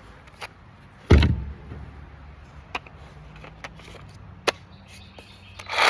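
Knocks and clicks from a wooden board and tools being handled: one heavy thump about a second in, then a few lighter, sharp clicks and a louder knock near the end.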